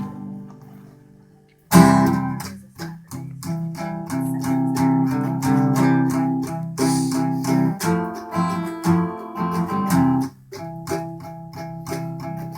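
Guitar playing a song intro. A chord rings and fades out, then, under two seconds in, rhythmic strummed chords start and carry on.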